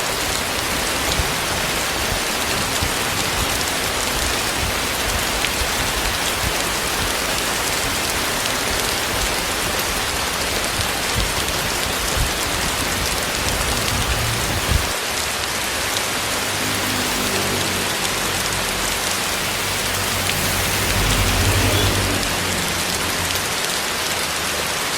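Heavy tropical rain pouring steadily onto surfaces, with low irregular rumbling through the first half. In the last third a faint low hum rises, swelling about 21 seconds in and then fading.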